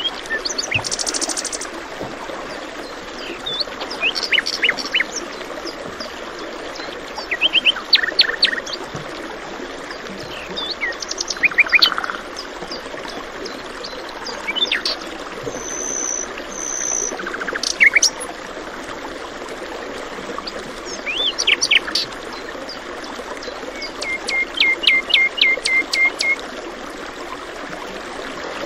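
Several songbirds chirping and singing over a steady murmur of running stream water.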